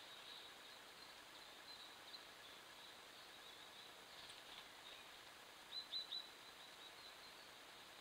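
Faint, high-pitched bird chirps over a quiet hiss, with three short chirps in quick succession about six seconds in.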